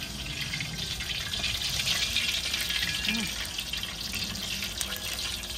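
Butterfish fillets deep-frying in a pot of hot oil: a steady sizzle of bubbling oil that swells a little in the middle.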